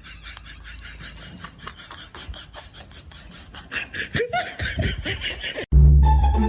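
Person laughing over a clattery, noisy background. Near the end it cuts off suddenly into loud music with plucked bass notes.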